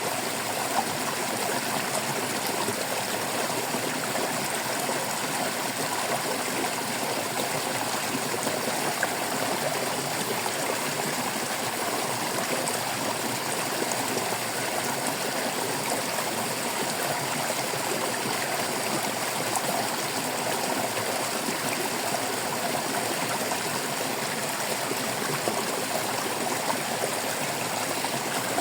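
Stream water babbling and trickling steadily.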